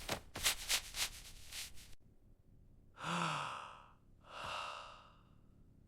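Adhesive tape pulled off the roll in a rapid run of clicky rips for about two seconds. Then a long sigh of relief with a falling voice, followed a second later by another breathy exhale.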